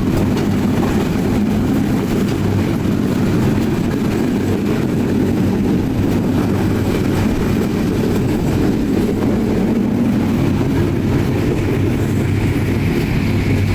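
Express passenger train running, a steady low rumble with a constant hum.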